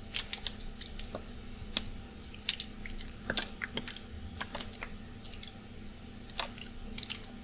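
A water bottle handled and shaken close to the microphone, with irregular crinkling clicks and crackles, over the steady hum of an air conditioner.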